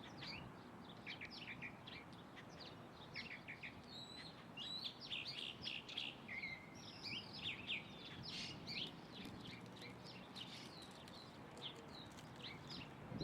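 Small birds chirping and calling, many short high chirps overlapping, busiest in the middle stretch, over a faint steady background hiss.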